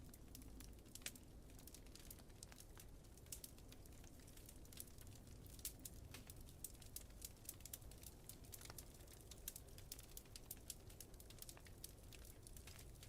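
Wood fire crackling: faint, irregular sharp pops and ticks, several a second and unevenly spaced, over a steady low rumble.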